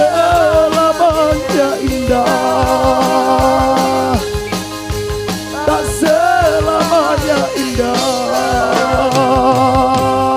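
Live dangdut band playing an instrumental passage: a wavering, pitch-bending lead melody held in long notes over steady drum strokes and bass, heard through a loud stage sound system.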